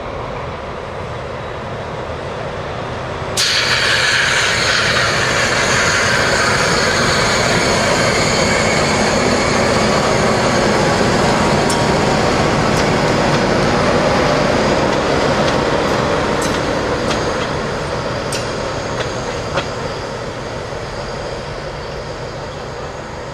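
Diesel locomotives moving a train of coaches at low speed during shunting, with the engines running and the wheels rolling on the rails. The sound jumps in loudness about three seconds in, and scattered clicks of wheels over rail joints come in the second half as it fades away.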